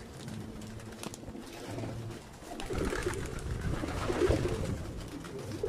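Racing pigeons cooing, louder from about halfway through.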